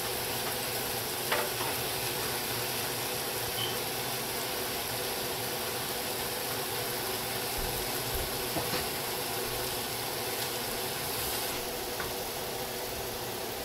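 Noodles and vegetables sizzling steadily in a wok on a gas stove, with a few light knocks and scrapes of a wooden spatula stirring them.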